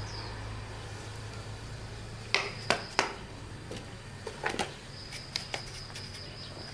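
Scattered sharp clicks and knocks, a few at a time, over a low hum that fades out about two and a half seconds in. A thin, high, steady tone comes and goes behind them.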